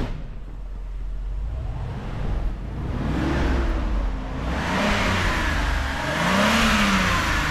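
A 1985 Mercedes-Benz 500 SEL's 5-litre V8 idling, then revved several times from about three seconds in, each rev climbing and dropping back.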